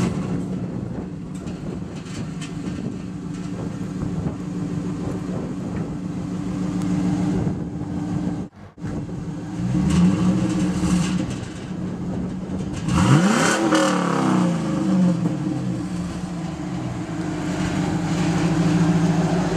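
Car engine running through its exhaust with a steady low drone, revved briefly about halfway through and again, more sharply, a few seconds later. The sound cuts out for a moment just before the first rev.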